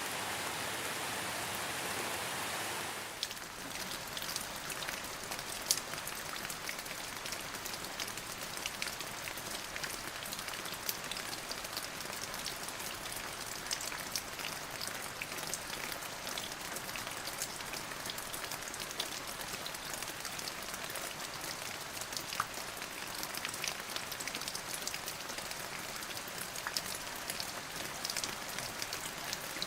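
Steady rain falling on a surface. About three seconds in, the even hiss gives way to rain with many distinct drops striking close by.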